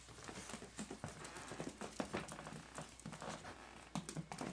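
Puggle puppies' paws pattering as they scamper around, a quick, irregular run of small ticks and taps.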